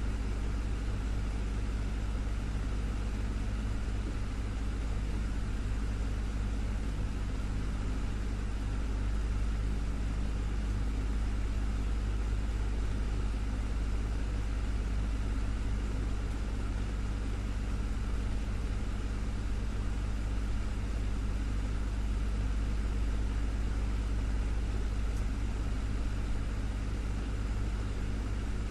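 Desktop fan running steadily: a constant low hum with a few steady tones over an even airy whoosh.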